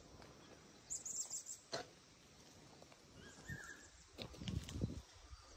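Faint outdoor ambience with bird calls: a quick run of four or five high chirps about a second in and a short lower call about three and a half seconds in, with a single sharp click between them and some low rumbling near the end.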